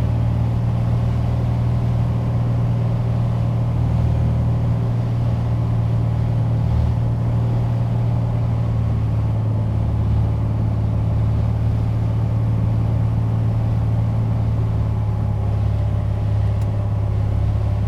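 Piper Dakota's six-cylinder Lycoming engine and propeller droning steadily, heard from inside the cabin during the approach.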